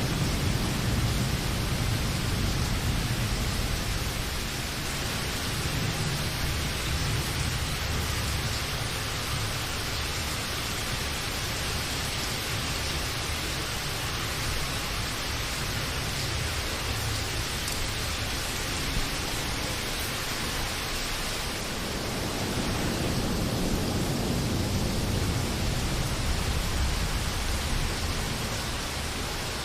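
Steady rainfall, a continuous even hiss, with a low rumble underneath that eases off after the first few seconds and swells again about two-thirds of the way through.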